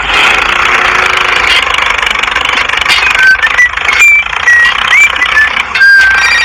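A small motor running steadily, with a few short high chirps from about halfway through to near the end.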